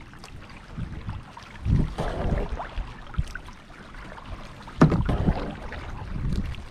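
Kayak paddle strokes splashing and dripping in lake water, with two heavier strokes about three seconds apart, over a low rumble of wind on the microphone.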